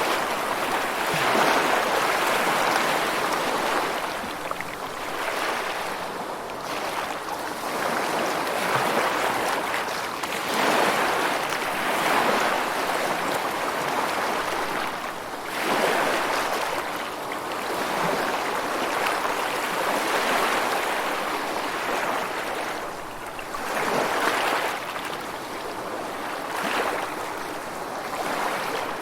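Ocean waves washing in, a hiss that swells and fades again every three or four seconds.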